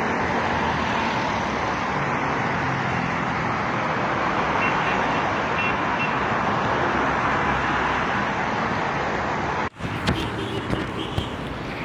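Steady road traffic noise from passing cars, an even rushing wash with no distinct events. It drops out for an instant about ten seconds in, then carries on slightly quieter.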